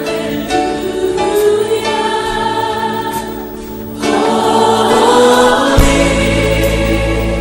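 Christian worship music: a group singing with instruments. It grows louder about four seconds in, and a deep bass comes in near six seconds.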